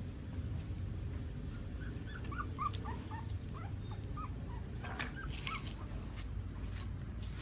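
Puppies whimpering and squeaking: many short, high cries, overlapping, starting about two seconds in and thinning out near the end. A steady low rumble runs underneath.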